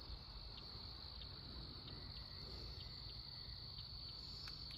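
Faint chorus of night insects: a steady, unbroken high-pitched trill.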